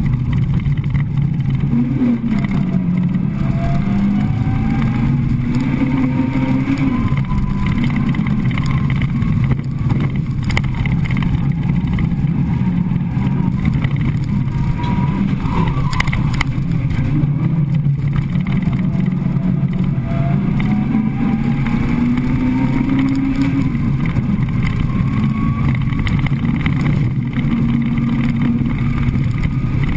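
Peugeot 106 four-cylinder petrol engine heard from inside the car under hard driving. It revs up twice in long climbs in pitch and drops back between them as the driver lifts off and changes gear, over a constant low rumble of road and cabin noise.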